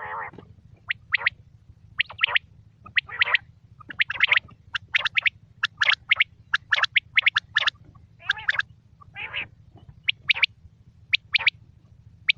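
Quail calling over and over: quick, sharp high notes, many in fast pairs and triplets, with a few rougher, raspy calls mixed in, over a steady low hum.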